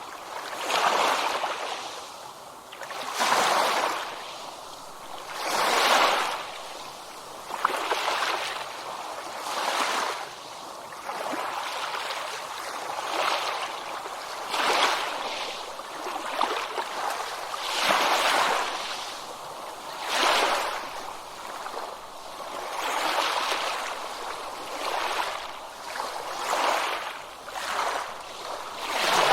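Small ocean waves washing in, the surf noise swelling and falling back every two to three seconds.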